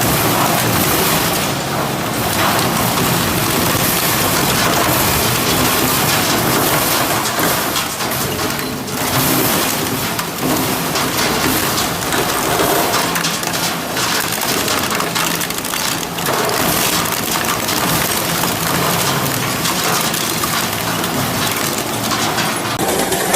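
Industrial metal shredder crunching and tearing scrap metal: a continuous dense crackle of breaking and scraping metal over the steady hum of the machine's drive.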